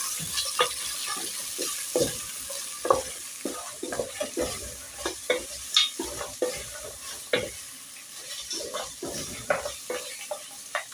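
Beef pieces sizzling in hot cooking oil in a pot as they are stirred and turned, with irregular knocks and scrapes of the stirring utensil against the pot over a steady frying hiss: the meat is being browned.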